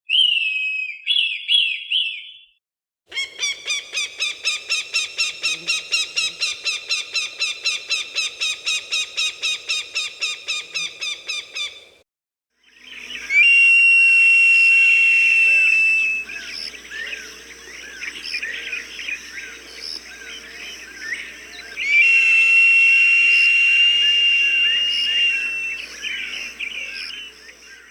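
Recorded falcon calls in separate clips: a few short high calls, then a rapid chattering series of about four calls a second lasting some nine seconds, then two long, steady high-pitched screams with smaller birds chirping behind them.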